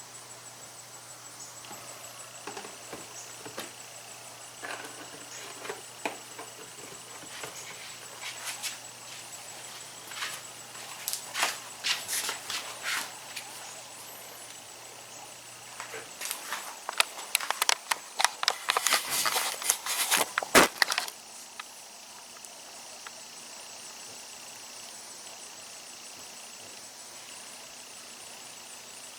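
Scattered light clicks, knocks and rattles of hands handling parts and tools on the dirt bike, busiest in two spells around the middle and about two-thirds through, then stopping, leaving a faint steady hum.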